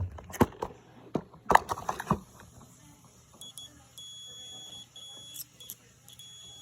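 A multimeter's continuity beeper sounding a steady high beep, broken into several stretches, as its probes touch a dryer thermal fuse: the beep means the fuse has continuity and is good. A few clicks and knocks come in the first two seconds.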